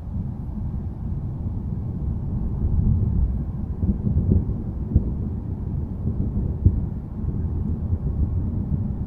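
Low rolling thunder rumble that swells over the first few seconds and stays deep, with a couple of brief crackles about five and seven seconds in.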